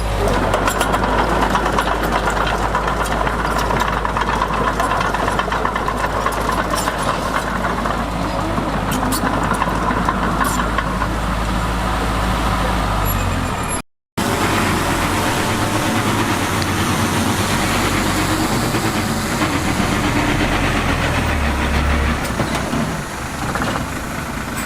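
Heavy diesel earthmoving machinery running steadily at work, with a constant low engine drone and mechanical clatter. A short break about 14 seconds in, after which the engine sound changes.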